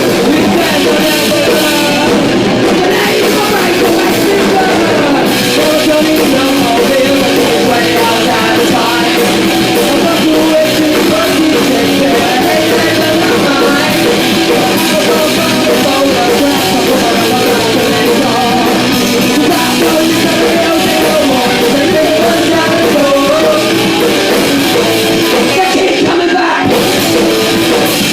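Live rock band playing loud and steady, with electric guitars, drums and sung vocals.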